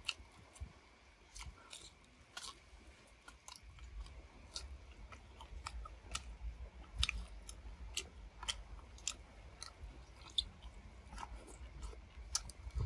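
A person chewing grilled eel, with irregular wet smacks and clicks of the mouth and lips.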